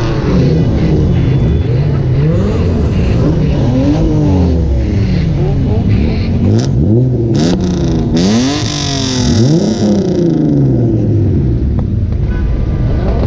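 Car engines revving, their pitch climbing and dropping again and again, several times a few seconds.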